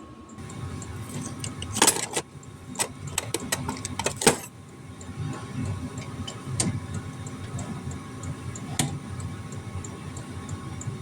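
A machine motor starts and runs steadily while a hole is drilled through a metal piece, with sharp metallic clicks and knocks over the hum, the loudest about two and four seconds in.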